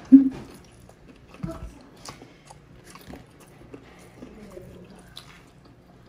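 Close-miked chewing and lip smacks of people eating grilled chicken and java rice with their hands: scattered soft wet clicks, with one brief louder sound at the very start.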